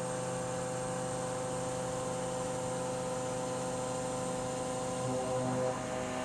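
Milling machine face-milling with the MB45 45° cutter and its cermet inserts: a steady cutting hum made of several held tones over a hiss, shifting briefly about five seconds in.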